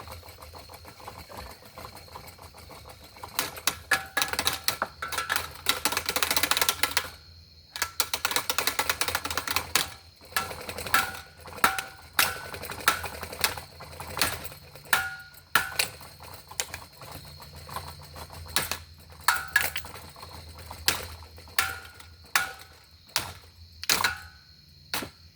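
Hard blows striking a running ceiling fan: a rapid clatter of hits a few seconds in, then single knocks every half second to a second, many of them leaving a short metallic ring. A steady low hum runs underneath.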